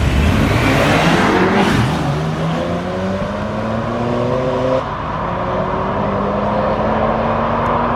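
Race cars accelerating hard in a drag run, their engines pulling with a steadily climbing pitch over a haze of noise, and a brief dip about five seconds in.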